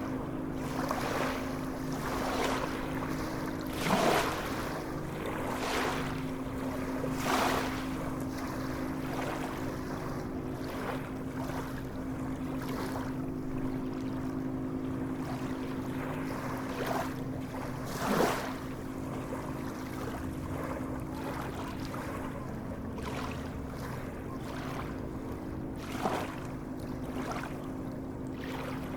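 Sea waves lapping and splashing, with a few sharper splashes, over a steady low hum.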